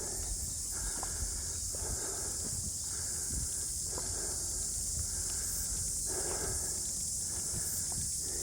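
Footsteps crunching along a bush track, about one step a second, over a steady high-pitched insect chorus.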